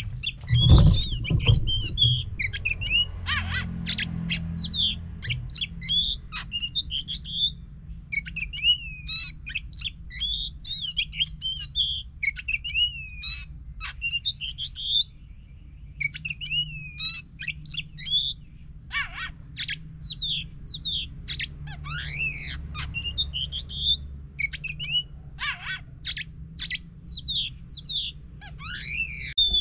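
Oriental magpie-robin (kacer) singing loudly: a long run of rapid, varied whistled phrases and chirps with short pauses between them, over a steady low hum, with a brief low rumble about a second in.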